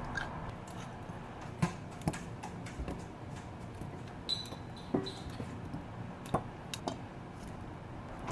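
Scattered light clicks and knocks, about five of them a second or so apart, over faint room tone.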